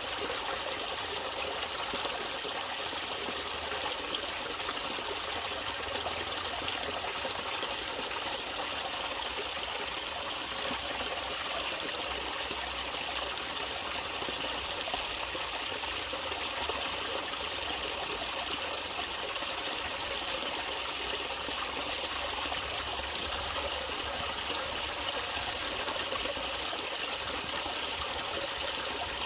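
Natural running water trickling and flowing steadily, like a small stream.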